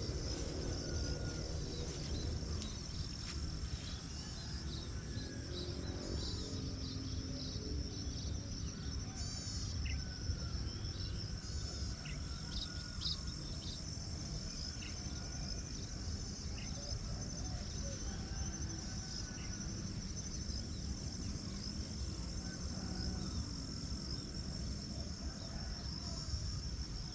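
Rice-paddy morning ambience: a steady, high insect trill with birds chirping and calling over it in short scattered notes, above a constant low rumble.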